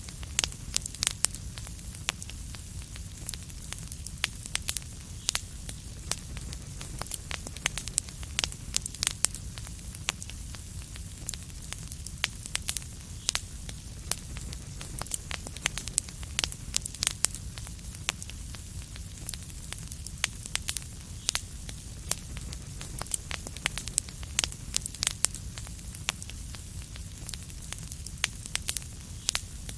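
Fireplace wood fire crackling: a steady low rumble of flames with frequent sharp, irregular pops and snaps of burning wood.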